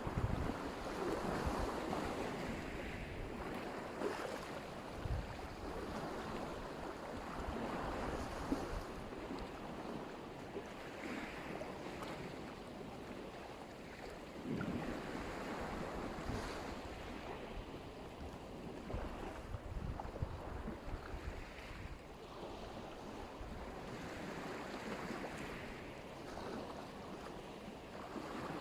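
Black Sea surf: small waves breaking and washing up the shore, swelling and easing every few seconds, with wind buffeting the microphone.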